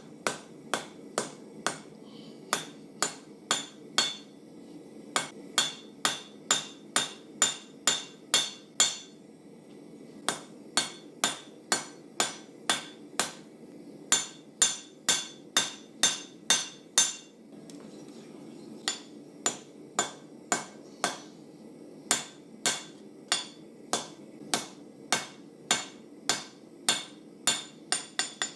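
Hand hammer forging a hot carbon-steel knife blank on an anvil: steady blows about two a second, each with a bright metallic ring. The blows come in three runs with two short pauses, over a steady low roar.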